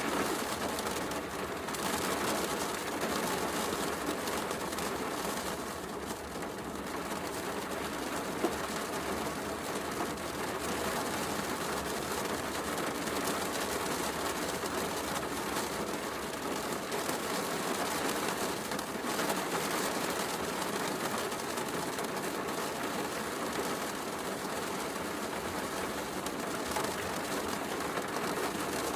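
Steady heavy rain hiss mixed with a fireplace crackling, one sharper pop about eight seconds in.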